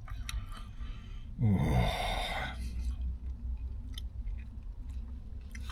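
A person chewing a sub sandwich with small wet mouth clicks, and a short falling murmur of a sigh about a second and a half in, over a steady low hum.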